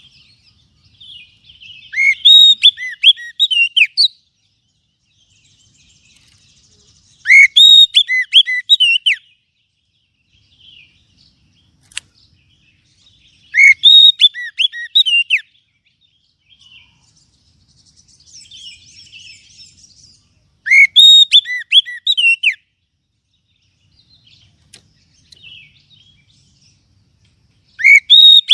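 Oriental magpie-robin (kacer) singing a loud lure call: rapid whistled phrases of about two seconds, repeated every six to seven seconds, with softer chirps and chatter between them.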